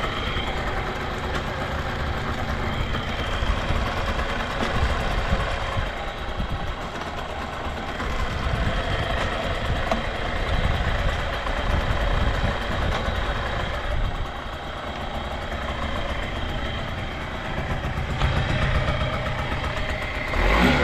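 Yamaha TDR50's small two-stroke single-cylinder engine idling steadily, running with no abnormal noise.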